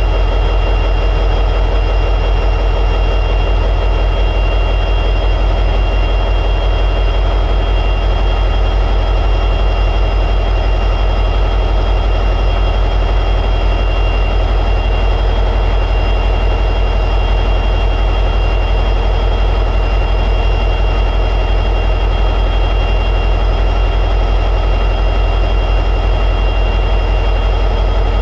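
EMD 710G3B two-stroke diesel prime mover of an SD60-series locomotive running steadily in high idle, with a steady high whine over the deep engine note.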